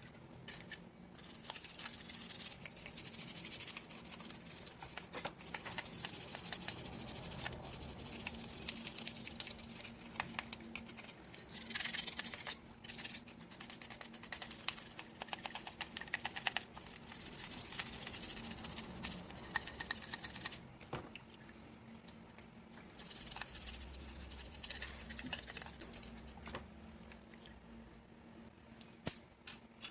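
Small brush scrubbing parts of a 1/24 scale diecast model car, in several bouts of quick scratchy strokes with short pauses between.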